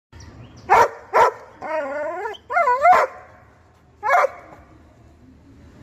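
A dog barks twice, gives two drawn-out whining calls that waver up and down in pitch, then barks once more.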